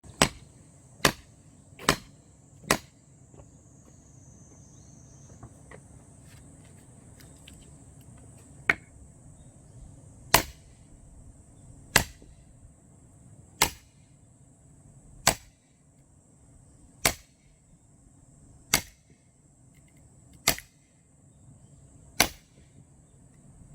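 An axe chopping into firewood logs, about thirteen sharp strikes. The first four come about a second apart, then the blows fall evenly, roughly every second and a half.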